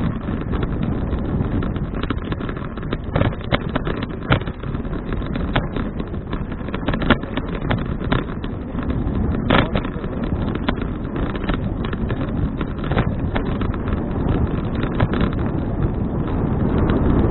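Wind buffeting an action camera's microphone while riding a bicycle, a steady low rumble with frequent short ticks and rattles through it, growing a little louder near the end.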